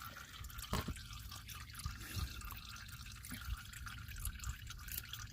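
Used engine oil dripping from the drain-plug hole of a 2000 Chevrolet Cavalier's 2.2L oil pan into a catch bucket, irregular drips several a second: the tail end of draining the old oil.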